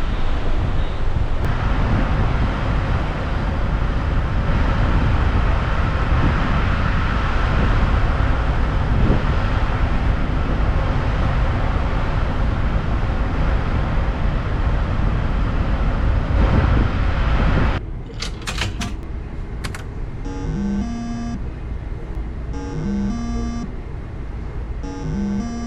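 Wind buffeting the microphone on a ferry's open deck, a dense roar mixed with the ship's low rumble and the sea. About eighteen seconds in it cuts to a quieter interior with a few clicks, then short repeating phrases of electronic beeping tones.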